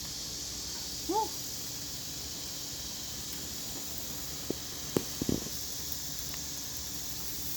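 Shark steaks sizzling on a hot grill, a steady hiss, with a few sharp clicks of metal about halfway through, as from tongs on the grate.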